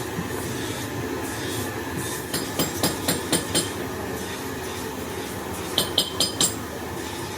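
Metal tapping and clinking on metal parts in a workshop: a quick run of about six taps a couple of seconds in, then four ringing taps near the end, over a steady background noise.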